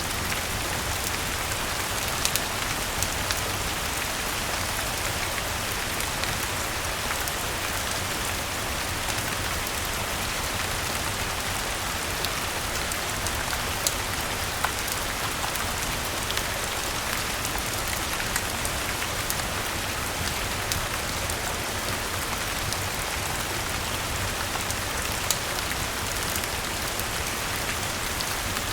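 Steady rain with a crackling wood fire: an even hiss of rainfall with scattered sharp pops and ticks.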